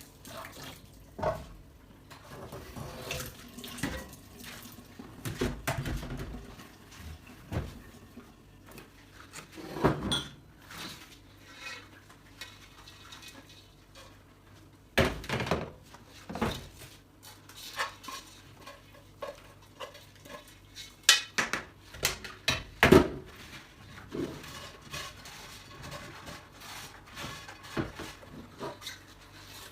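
Dishes and cutlery clinking and clattering as they are handled and washed, with water from a tap or sink. The clatters come irregularly, loudest about halfway through and again a few seconds from the end.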